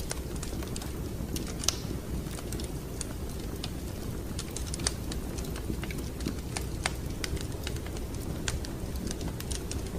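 Wood fire crackling in a fireplace: irregular sharp pops and snaps over a steady low rumble of the flames. The loudest pops come just before 2 s and near 5 s.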